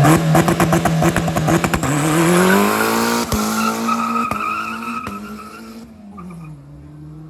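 Drag-racing car launching and accelerating hard away. The engine note climbs, holds, then fades and drops in pitch as the car pulls off. A rapid crackling runs through the first two seconds of the launch.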